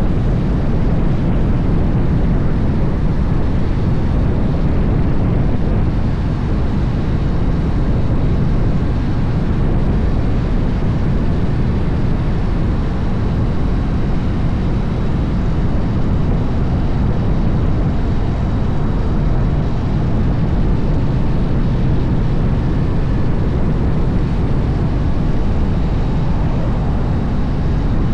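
A Harley-Davidson motorcycle being ridden at a steady pace: a continuous low engine rumble mixed with rushing wind, with no change in pitch or level.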